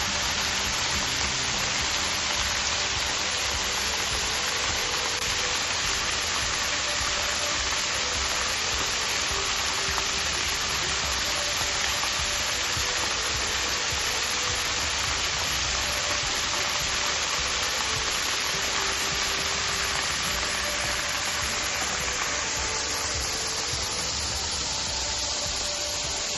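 Waterfall rushing steadily, a constant hiss of falling water that eases slightly near the end.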